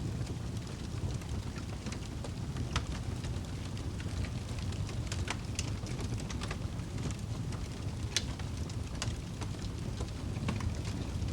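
Wood fire burning in a fireplace: a steady low rumble of flames with irregular sharp crackles and pops, the loudest pop about eight seconds in.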